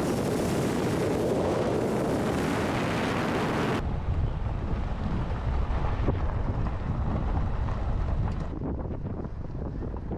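Wind buffeting the microphone. A full, loud hiss for the first four seconds cuts off abruptly, leaving a lower rumble of wind with faint crackles.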